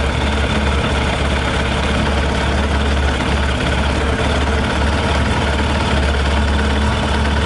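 Yamaha YZF600R's four-cylinder engine idling steadily, running on 40% whisky poured into the tank, with a little petrol still mixed in.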